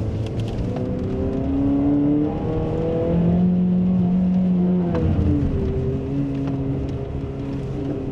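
Renault Clio's engine heard from inside the cabin, revving up steadily under throttle for about five seconds. It then drops sharply in pitch as the throttle is eased off, and runs on at a lower, steady pitch while the car slows.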